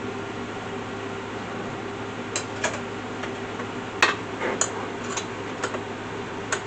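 Light metal clicks and clinks from the aluminium and steel parts of an Alaskan chainsaw mill being handled and adjusted, about seven scattered knocks. A steady low hum runs underneath.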